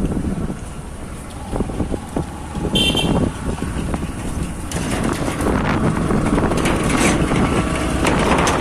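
Motorcycle on the move, with engine rumble and wind buffeting the microphone, and a short horn beep about three seconds in.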